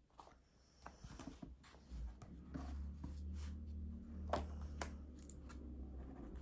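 Desk work sounds: pen writing and paper being handled, with scattered small clicks and rustles. A few sharper taps come a little after the middle. A faint low hum comes in about two seconds in.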